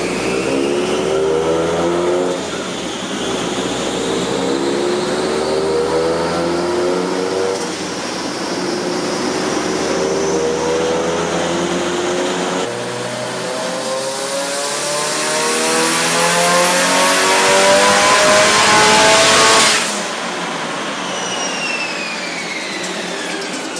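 Car engine accelerating hard, its pitch climbing in long pulls with a high whine rising above it. The sound breaks off abruptly about halfway through and again near the end, after which a whine falls away in pitch.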